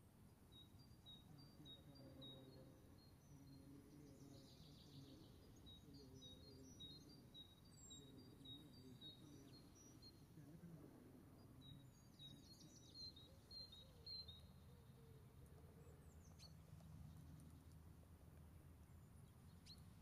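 Faint bird calls over a low outdoor rumble: runs of short high notes, about two a second, stopping and starting every few seconds.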